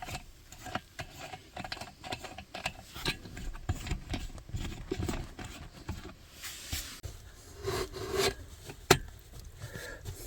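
Irregular scraping and rubbing with many small clicks and knocks, and one sharp click about nine seconds in.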